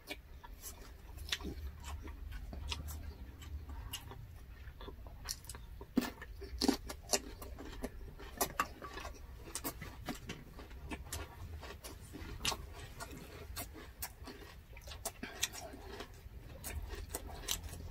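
Close-up eating sounds from two people: chewing and lip-smacking, with many small irregular clicks and smacks as they eat roast chicken, grilled pork belly and rice by hand.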